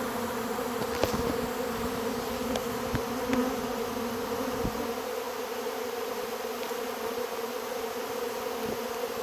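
A swarm of honey bees leaving the hive in a large cloud, a dense steady buzzing hum.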